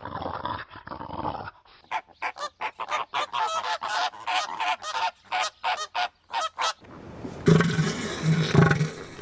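A dog's growl that stops about a second and a half in, then a quick run of short honking bird calls for about five seconds, then a cow mooing near the end.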